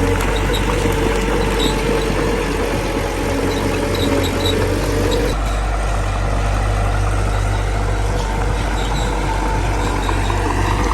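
Small bulldozer's diesel engine running with a steady low drone; its tone shifts about five seconds in.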